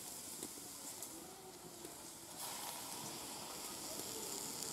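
Shredded cabbage sizzling in a steel wok over a wood fire, a steady hiss that gets louder about halfway through as more cabbage goes in.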